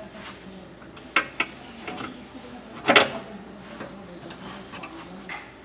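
Hand tools working on the truck's engine bay: two quick clicks about a second in, a louder metallic clack about three seconds in, and a small click near the end, over a faint steady hum.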